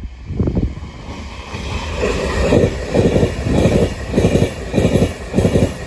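Avanti West Coast Class 390 Pendolino electric train passing close at speed. A rushing noise builds as it nears, then from about two seconds in its wheels clatter in a steady rhythm of about two beats a second.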